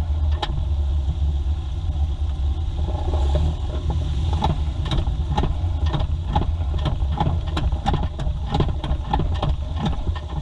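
Mazda 2 running with a steady low rumble and repeated sharp knocks on top. The knocks come a few at a time at first, then about two a second from midway on. This is the car's knocking noise.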